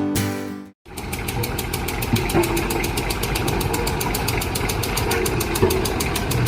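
A diesel engine idling with a steady, fast chugging beat, starting about a second in after the music cuts off.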